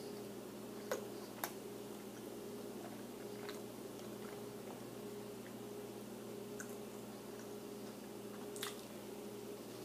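A person chewing a bite of a crispy chicken wrap with the mouth closed: soft, wet chewing, with a few short sharp clicks about a second in and once near the end, over a steady low hum.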